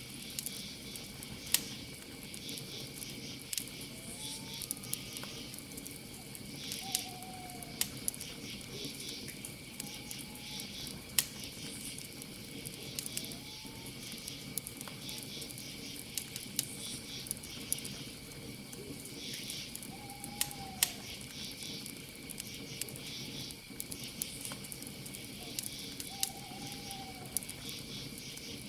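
Campfire crackling with irregular sharp pops, over a steady chorus of crickets chirping. A handful of short, arching calls from a night animal come and go.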